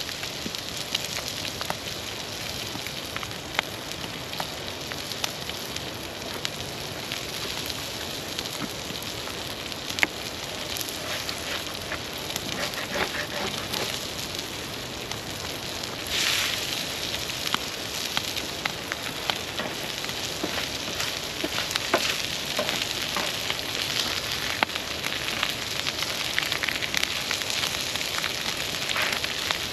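Campfire crackling: a steady hiss with frequent sharp pops and snaps scattered irregularly throughout.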